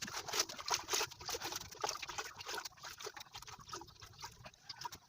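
Water splashing and trickling as leafy greens are washed by hand in a pot of water, in many small irregular splashes.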